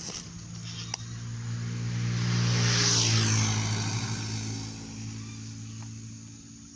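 A motor vehicle drives past, getting louder to a peak about three seconds in, its engine note dropping in pitch as it goes by, then fading away.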